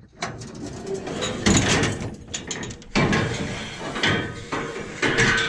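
Boots climbing the metal ladder of a combine harvester: about five heavy clanks, one every second or so, with rattling between the steps.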